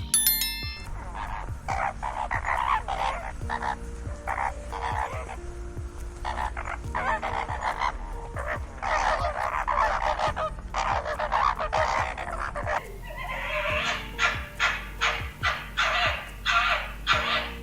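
A run of short, harsh animal calls repeated again and again, coming quicker and more evenly in the last few seconds, over faint background music.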